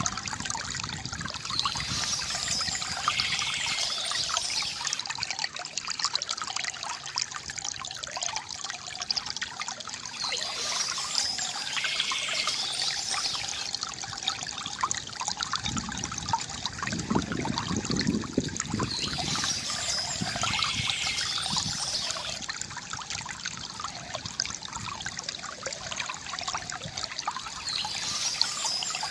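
Water trickling and gurgling steadily from a bamboo fountain, with a deeper gurgle about two-thirds of the way in. Birds chirp in the background in short spells that recur about every nine seconds.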